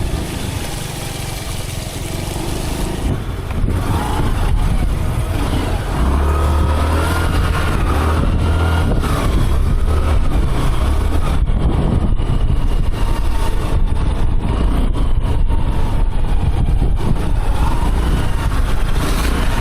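Riding a motorbike along a road: the bike's engine and road noise under heavy wind rumble on the microphone, getting louder about six seconds in.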